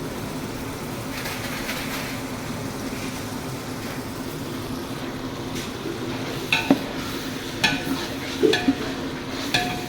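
Ginger-garlic and mint-coriander paste frying in oil in a large pot, stirred with a metal ladle. The steady sizzle runs under a low hum, and in the second half the ladle strikes the pot in several sharp, ringing clanks.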